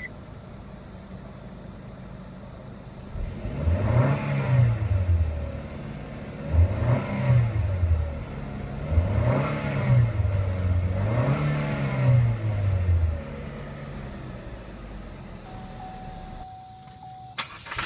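2014 Chevrolet Sonic's turbocharged four-cylinder engine idling, then revved four times in quick succession, each rev rising and falling back, before settling back to idle.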